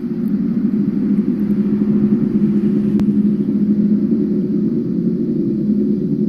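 A loud, steady, low droning hum with a few held tones, of the kind posted as an unexplained 'strange sound in the sky'. There is a single faint click about three seconds in.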